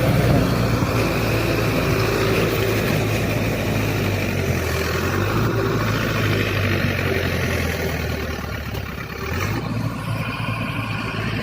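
Tractor diesel engine running steadily, its engine note shifting about nine and a half seconds in.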